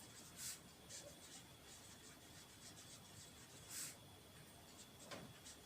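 Faint scratching of a pen writing, a few short strokes over near silence.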